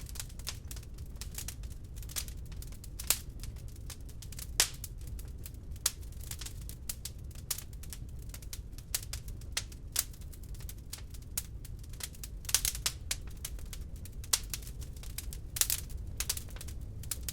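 Wood log fire in a fireplace crackling and popping: irregular sharp snaps, a few louder pops among them, over a low steady rumble of the burning fire.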